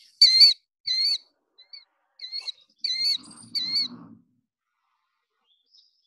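Recorded call of a migratory bird: about six short, harsh calls repeated in quick succession, each a brief arched note.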